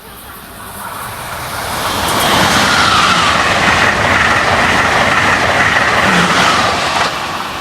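Amtrak Acela Express electric trainset passing at speed. A rush of wheel and air noise builds up, stays loud for about five seconds, then drops off sharply near the end as the train clears.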